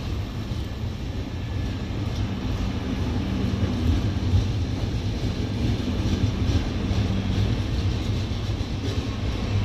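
An Indian Railways express's LHB passenger coaches rolling past on the nearby track: a steady low rumble of wheels on rail, with a faint hum over it.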